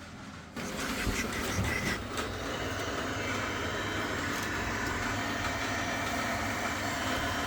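Worcester-Bosch combi boiler starting up after being powered on, its fan and pump coming on with a sudden step about half a second in and then running with a steady hum, with a few clicks in the next couple of seconds. The newly fitted circuit board is now powering the pump, and the H09 fault no longer shows.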